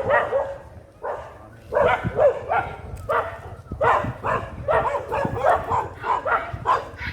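A dog barking repeatedly in short, loud barks, in clusters through the whole stretch.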